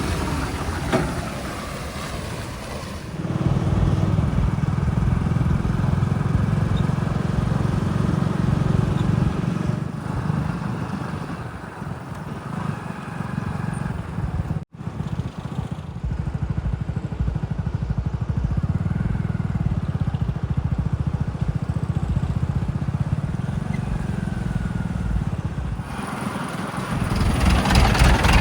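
Heavy diesel engine running steadily under load, with a brief dropout about halfway through.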